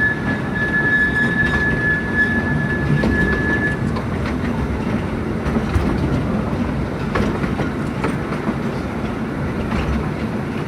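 Narrow-gauge forest railway train running, heard from aboard: a steady rumble with scattered wheel clicks over the rail joints. A thin, high wheel squeal sounds over it and stops about four seconds in.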